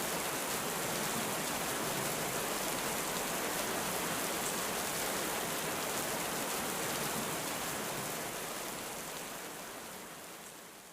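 Heavy rain falling steadily as a dense, even hiss, fading out over the last few seconds.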